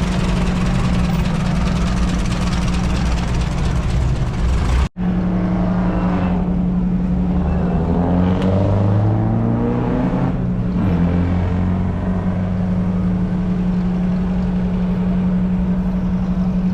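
Vintage racing car engines running loudly, with pitch rising and falling as one revs and pulls away. The sound breaks off sharply about five seconds in and picks up with another engine note.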